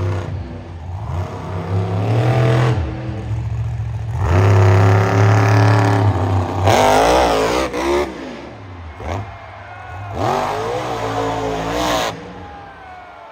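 Monster truck engine revving hard in several surges, its pitch climbing and dropping, then winding down near the end.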